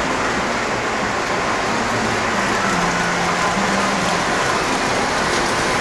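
Model trains running on the layout: a steady rumble and hiss of wheels on track, with a faint motor hum that shifts slightly in pitch.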